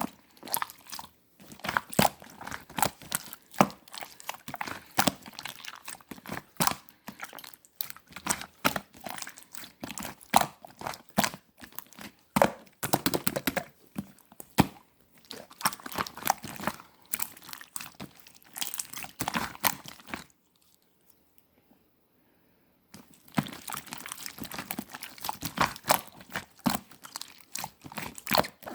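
Red clear slime being squeezed, pressed and stretched by hand, giving a dense, irregular run of wet clicks and pops. The sound stops for about three seconds roughly two-thirds of the way through, then starts again.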